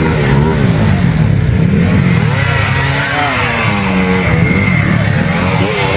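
Dirt bike engines racing, their pitch rising and falling again and again as the riders work the throttle and shift, with music playing underneath.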